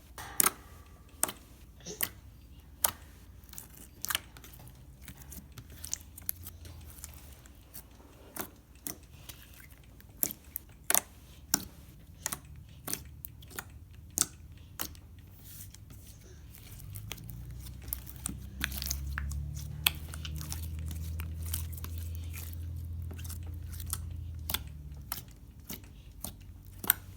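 Glitter slime being squished and poked in the hands, with sharp, irregular wet clicks and pops. A low hum joins in for several seconds past the middle.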